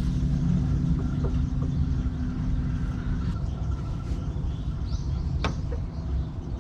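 Strong wind buffeting the microphone: a loud, uneven low rumble. A steady low hum underneath stops about halfway through, and there are a few faint clicks near the end.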